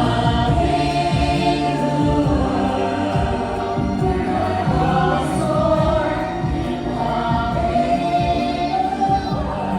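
Show music with a choir singing held, swelling notes over a full orchestral backing.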